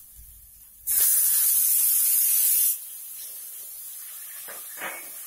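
Chopped tomatoes hitting hot oil in a kadhai: a loud sizzle starts suddenly about a second in and drops after nearly two seconds to a quieter steady sizzle, with a few scrapes of a wooden spatula stirring near the end.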